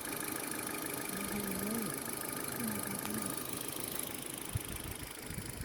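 Ford Focus II engine idling with a steady whine over it; the high hiss thins out about four seconds in.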